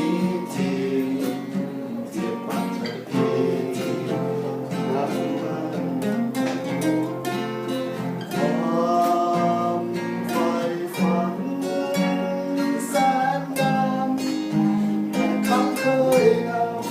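Live acoustic music: a strummed acoustic guitar with a melody line carried over it, in an instrumental passage between sung verses.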